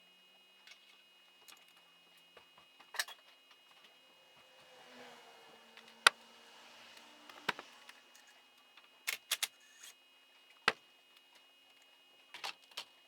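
Scattered metallic clinks and knocks of tools and engine parts being handled during the teardown of a YZ85 two-stroke motocross engine, with a sharp one about six seconds in and quick clusters of two or three later.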